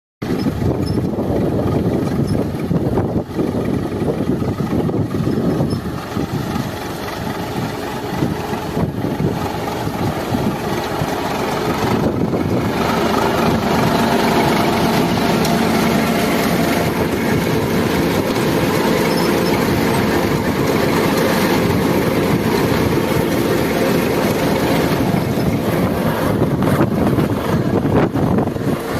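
Tractor engine running steadily while pulling seeding equipment. It grows a little louder about twelve seconds in.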